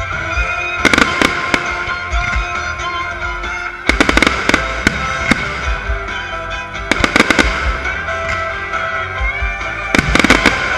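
Fireworks bursting in clusters of sharp bangs, one cluster about every three seconds, over continuous music with a steady low beat.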